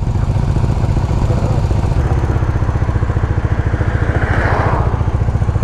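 Motorcycle engine running steadily with an even low exhaust pulse. A brief rush of noise rises and fades a little past four seconds in.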